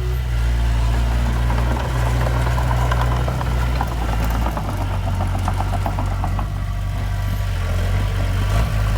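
Heavy diesel engine of earthmoving equipment running steadily. Its note shifts lower about halfway through, and a rapid rattling sits over it through the middle seconds.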